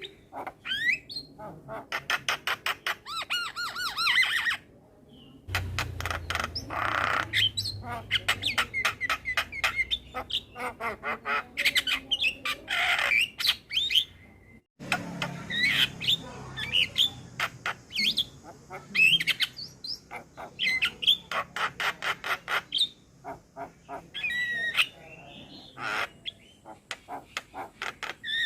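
Male Javan myna singing a varied, busy song: fast runs of clicks and rattles mixed with harsh squawks and whistled, warbling notes, broken twice by short gaps.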